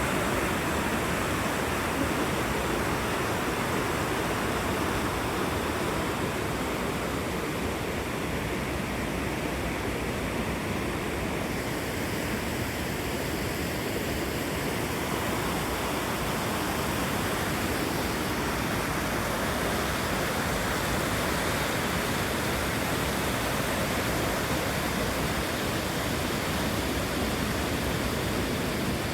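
A waterfall rushing steadily: an even, unbroken wash of falling water.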